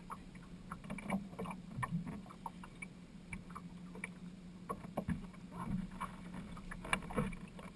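Small boat on the water: a steady low hum under irregular splashes and knocks, with water slapping the hull.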